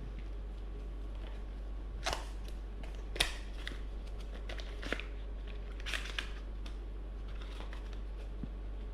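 A backpack and its packaging being handled: a few scattered sharp clicks and rustles over a steady low hum.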